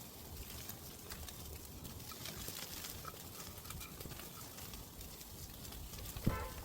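Crackling and popping from a wood-fire barbecue grill with pork belly on it: scattered sharp clicks over a steady low background. A brief voice-like sound comes about six seconds in.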